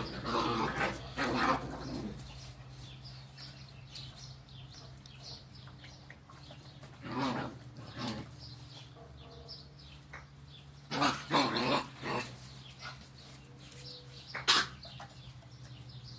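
Seven-week-old puppies giving short yips and barks in scattered bursts, the sharpest one near the end, over a steady low hum.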